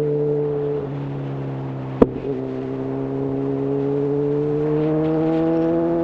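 Honda CB1000R inline-four with a full-system Black Widow exhaust riding under way: the engine note drops back about a second in, there is a sharp click about two seconds in, then the engine pulls with its pitch rising slowly. Wind noise runs underneath.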